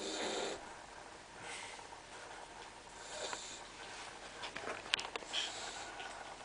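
A sleeping dachshund puppy snoring: four noisy snoring breaths about every two seconds, the first the loudest. A few sharp clicks come about five seconds in.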